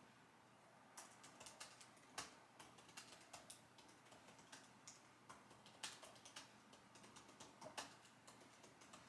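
Computer keyboard typing: faint, irregular key clicks, several a second, with a few harder keystrokes among them.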